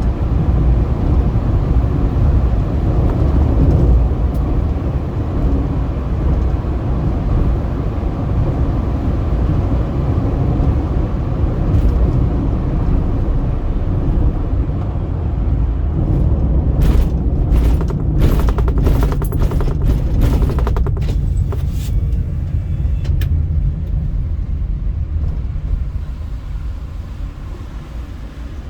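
Car driving on a highway: a steady, low road-and-engine rumble. A short run of sharp clicks comes about two-thirds of the way through, and the rumble fades near the end.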